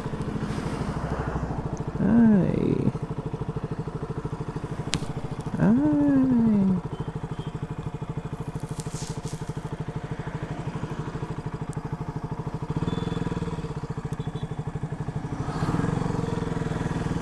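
KTM RC 200's single-cylinder engine running steadily, blipped twice: the revs shoot up and fall back about 2 seconds in and again about 5 seconds in, the second fall slower. These are throttle blips for rev-matching downshifts.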